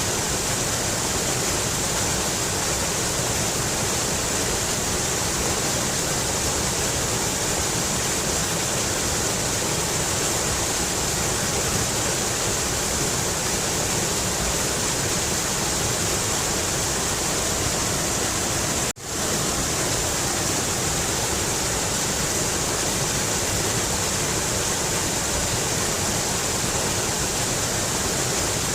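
Mountain river water rushing steadily over rocks, an even full-range rush. About two-thirds of the way through it cuts out for an instant and comes straight back.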